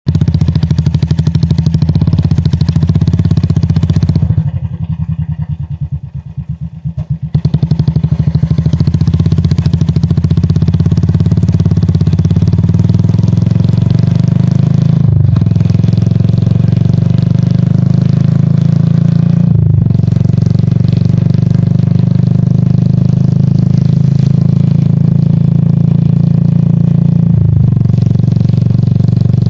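Royal Enfield Classic 350's single-cylinder engine running loud and steady. It drops to a softer note for about three seconds near the start, and dips briefly three times later on.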